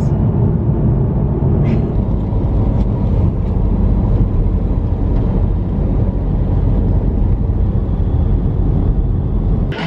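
Car driving on the road: a steady low rumble of road and engine noise from the BMW M2.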